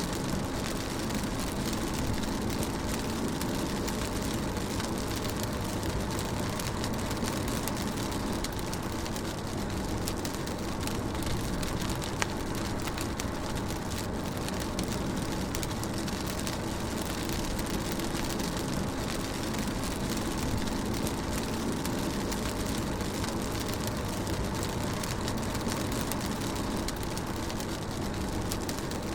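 Rain drumming on a car's roof and windscreen while the car is driven, with the steady low rumble of the engine and tyres beneath it and scattered sharper drop hits.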